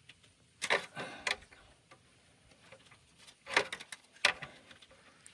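Metal hand tools clinking and clattering in two short runs of sharp clicks, about a second in and again around four seconds in.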